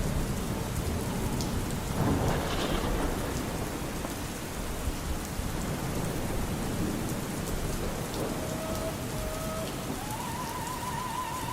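Steady rain, with a rumble of thunder swelling about two seconds in. Near the end a faint operatic voice comes in, holding notes with vibrato.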